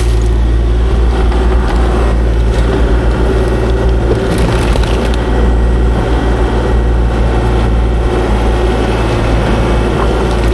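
Kubota KX040-4 mini excavator's diesel engine running steadily under working load, with the hydraulics whining at a held pitch and scattered crunches and knocks of rock being handled.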